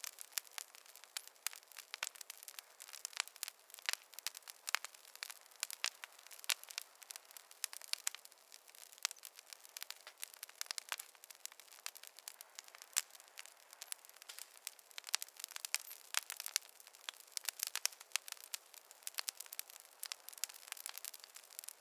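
Campfire crackling: a dense, irregular stream of sharp pops and snaps, several a second, over a faint hiss.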